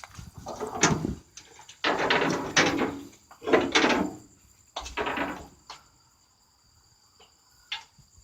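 Scraping, knocking and rustling as people push their way through an entry, in four rough bursts over the first five seconds, then a few faint clicks.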